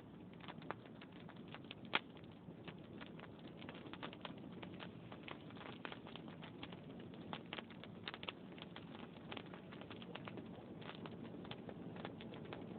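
Wood fire in a fireplace crackling, with many small irregular pops over a low steady noise, and one louder pop about two seconds in.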